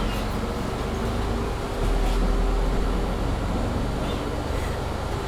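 Mercedes-Benz Citaro C2 G articulated bus running under way, heard from inside the passenger cabin, with a steady low rumble and hum, getting louder about two seconds in, over the noise of the bus's loud heating.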